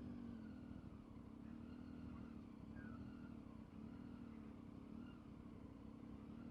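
Motorcycle engine running at a low level, its pitch rising and falling gently about once a second as the throttle changes.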